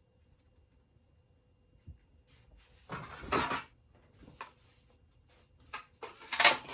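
Wooden ceiling fan blades being picked up and handled: one knock about two seconds in, then several short scrapes and clatters.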